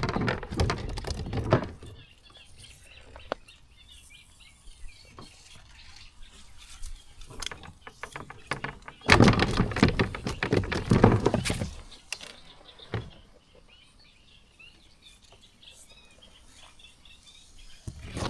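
Birds chirping in the background, broken by two loud bouts of knocking and rustling handling noise, one at the start and one from about nine to twelve seconds in.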